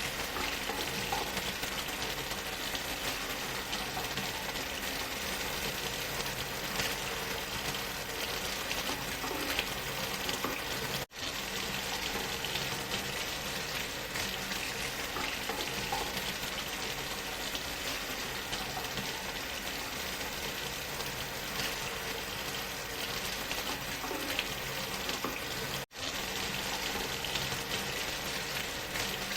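Waterfall sound mixed with white noise: a steady, dense hiss spread evenly from low to high. It cuts out for an instant twice, about eleven seconds in and again a few seconds before the end.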